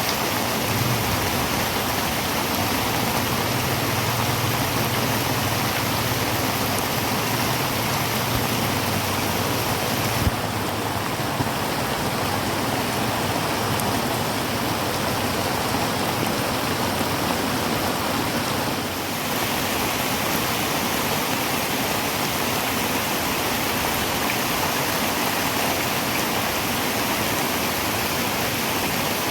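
Heavy rain drumming steadily on a tin roof, a dense continuous patter and hiss, with a single sharp tap about ten seconds in.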